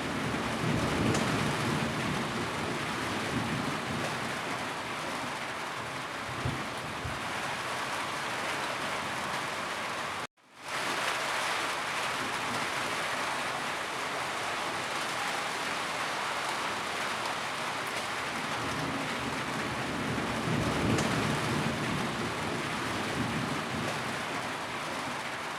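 Heavy rain falling steadily, with low rolls of thunder near the start and again near the end, and a few faint pops from a crackling wood fire. The sound drops out completely for a moment about ten seconds in.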